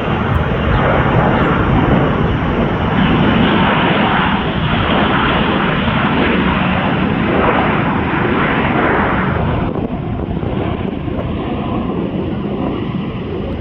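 Jet airliner engines, loud and steady as the plane passes close by, easing off somewhat about ten seconds in.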